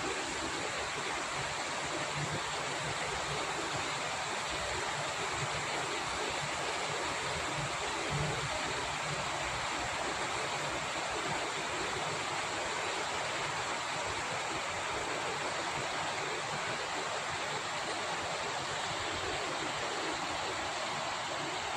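Steady rainfall, an even hiss of rain with no break.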